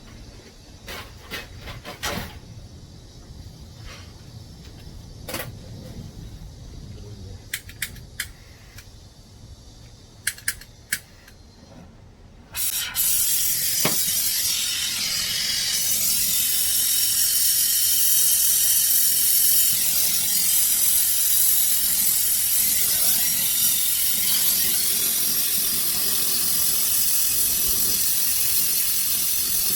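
A few sharp clicks and knocks, then about 13 seconds in a loud, steady hiss of pressurised gas starts suddenly and keeps going without a break. It is gas rushing through an air-conditioner refrigerant line during a pressure leak test.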